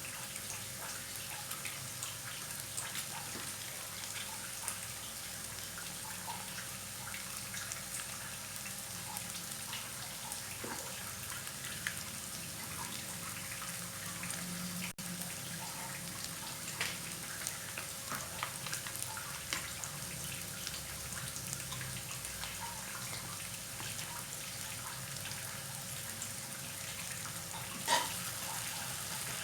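Mie goreng frying in a pan: a steady sizzle with scattered small crackles from the oil, and one sharper pop near the end.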